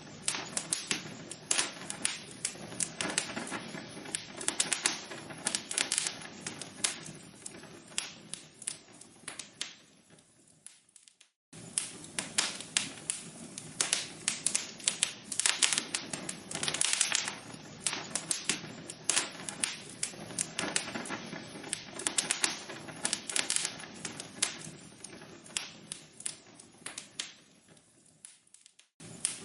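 Log fire crackling, a dense run of sharp pops and snaps. Twice the crackling thins out and breaks off into a moment of silence before starting again, the seam of a looped recording.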